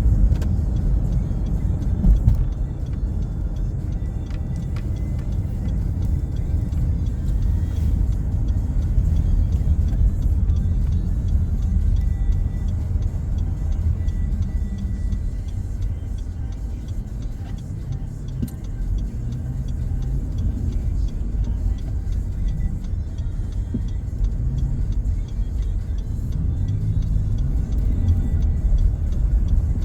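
Steady low rumble of a car driving, heard from inside the cabin, with music playing faintly.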